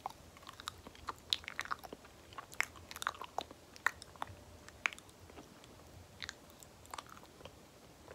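Banana being chewed with sticky, wet mouth clicks and smacks, irregular and densest in the first five seconds, thinning out toward the end.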